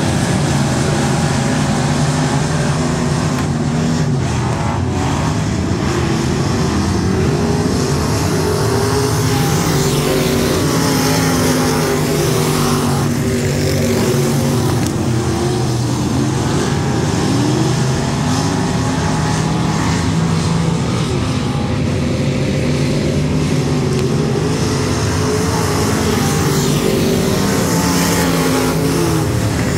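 USRA limited modified race car engines running at racing speed, their pitch repeatedly rising and falling as the cars accelerate and lift, with several engines overlapping.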